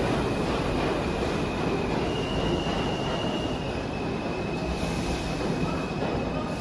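New York City subway train running on the rails with a steady rumble, its wheels squealing in high thin tones that shift pitch a couple of times.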